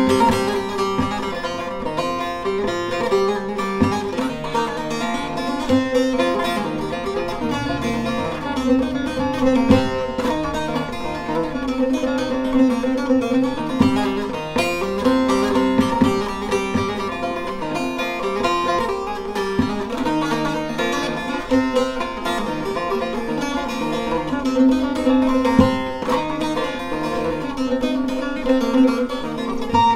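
Professional short-neck bağlama with a mulberry-wood bowl played solo: a fast melody of plucked notes over a steady ringing drone.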